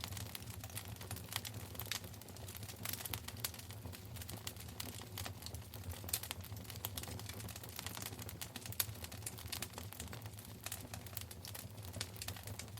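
Wood fire burning in a fireplace: a steady low rumble of the flames under many quick, irregular crackles and pops, one sharper pop near the end.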